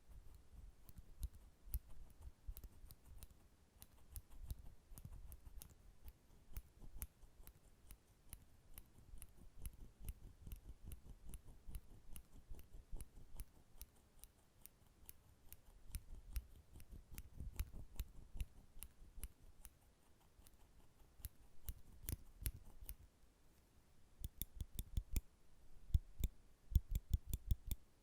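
Nail clippers clicking shut over and over: a steady stream of sharp snips, with quicker runs of clicks near the end.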